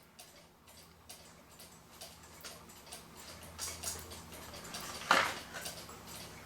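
Clock ticking faintly and steadily, about two ticks a second, with one louder knock about five seconds in.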